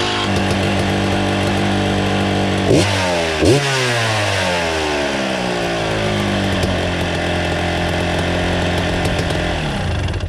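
Dirt bike engine running: two quick throttle blips about three seconds in, the revs falling back to a steady idle, then the pitch sags and the engine cuts out at the end.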